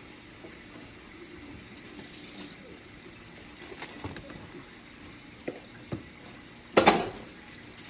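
Kitchen tap running as baby carrots are washed in the sink. Two light knocks come near the end, then a short, much louder clatter.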